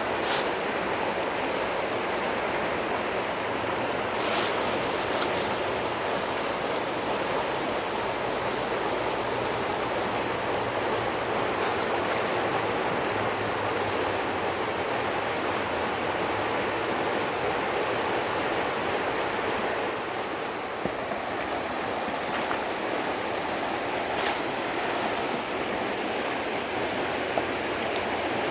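Steady rush of flowing water from a stream, with a few faint clicks now and then.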